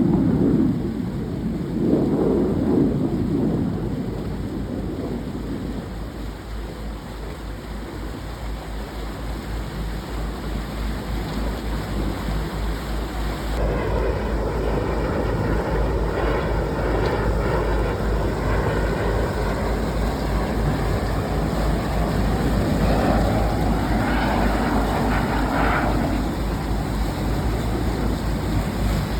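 Boat engine running steadily under load while towing a salvage barge, with wind on the microphone; the sound grows fuller and brighter about halfway through.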